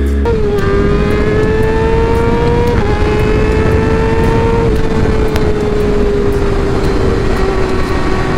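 Motorcycle engine running at road speed, with loud wind noise on the microphone. The engine note climbs a little, steps down about three seconds in and again near five seconds, then sinks slowly.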